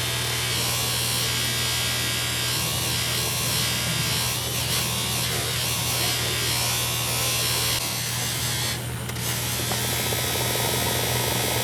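Workshop machine's electric motor running with a steady hum and buzz, dipping briefly in level about nine seconds in.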